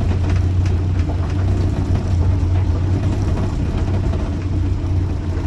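Land Rover Series 3 Lightweight's four-cylinder petrol engine running as the vehicle is manoeuvred at low speed, heard from inside the cab, which has no soundproofing. A steady low drone with road noise over it.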